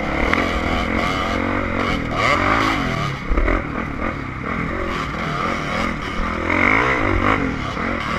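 Dirt bike engine revving up and down again and again as the throttle is worked, with a brief knock about three seconds in.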